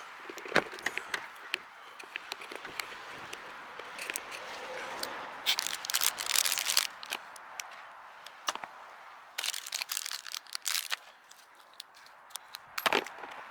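Small parts and packaging being handled: scattered clicks and knocks, two spells of crinkling rustle, and a sharper knock near the end.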